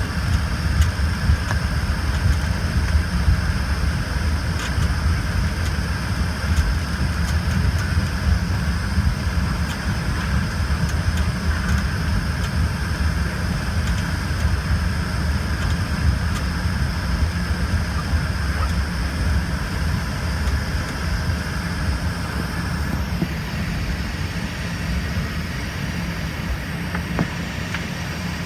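Cabin noise inside an Embraer ERJ-145 regional jet: its rear-mounted turbofans and the airflow make a steady loud rumble with a high whine on top. About 23 seconds in, part of the high whine drops away while the rumble carries on.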